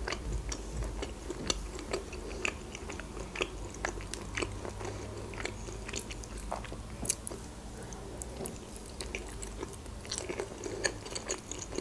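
Close-miked chewing of salami and pasta: wet mouth clicks and smacks, a few every second.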